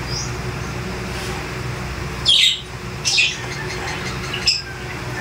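Three short bird calls, the first two dropping in pitch, over a steady low hum.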